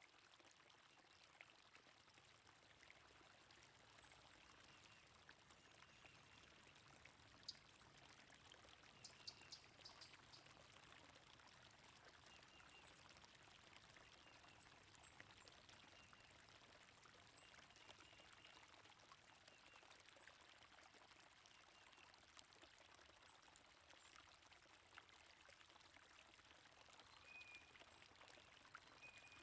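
Faint, steady flowing stream water with small scattered bird chirps.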